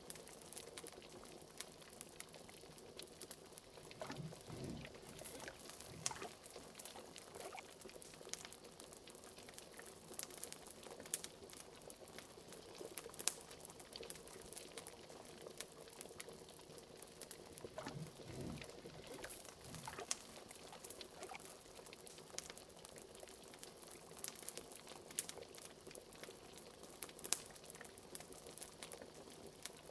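Liquid bubbling steadily in a pot, as a cauldron, with a deeper glug or two about four seconds in and again near the middle. Frequent small crackles and pops from a fire run throughout.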